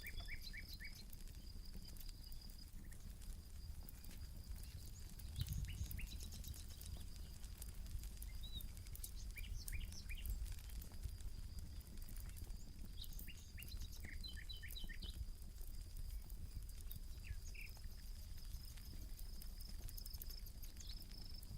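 Campfire crackling with scattered pops, under a steady high insect trill and short bird chirps that come in small groups several times.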